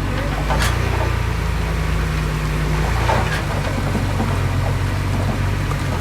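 Heavy diesel engine of earthmoving machinery running steadily, its note shifting about three seconds in, with a sharp clank near the start.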